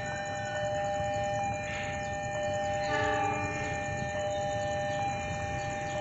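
Railway level-crossing warning alarm sounding steadily as a train approaches, a held two-note electronic tone, with a short horn blast about three seconds in.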